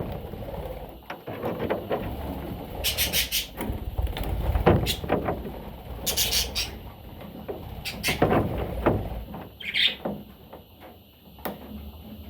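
Budgerigar chirping and chattering in short high bursts, about three and six seconds in, with a single short chirp near the ten-second mark. Scattered clicks and knocks are heard between the bursts.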